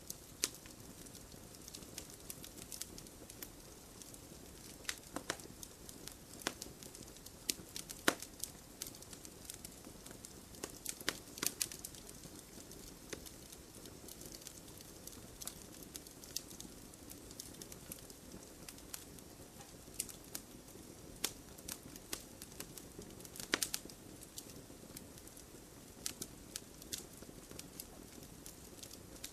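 Wood fire crackling: irregular sharp pops and snaps over a low, steady hiss of burning, with a few louder snaps scattered through.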